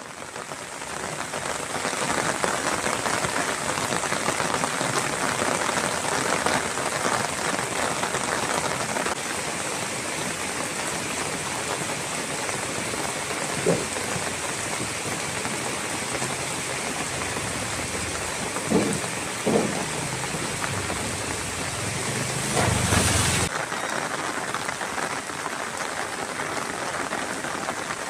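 Steady, heavy rain falling and splashing on surfaces, with a few brief louder sounds partway through and a short low rush near the end.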